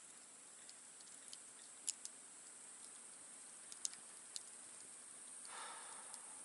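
Wood campfire crackling faintly: scattered sharp pops and snaps, the loudest about two and four seconds in, over a steady faint hiss. A brief soft rushing swell comes near the end.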